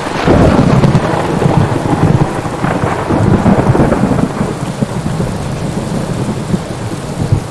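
Thunderstorm: rolling thunder rumbles over steady rain, with fresh peals about a third of a second and again nearly three seconds in, the rumble dying away over the second half.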